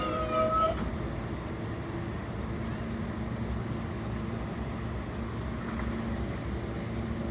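New York City Subway L train's motor whine falling in pitch and cutting out within the first second as it slows, then a steady low hum and rumble.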